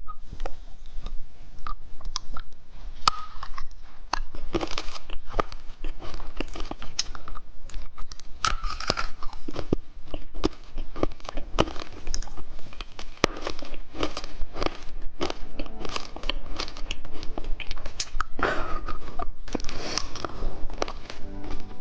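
Close-miked chewing and crunching of finger-shaped candy, a dense run of irregular crackles and clicks, with some wrapper crinkling and tearing.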